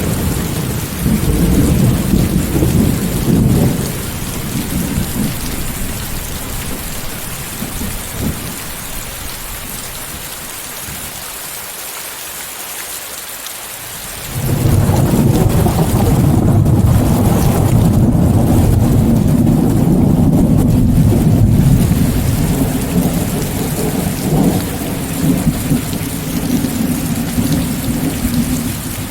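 Steady heavy rain hiss, mixed with white noise, under rolling thunder. A thunder rumble dies away over the first half, and a new one breaks in sharply about halfway and rolls on until near the end.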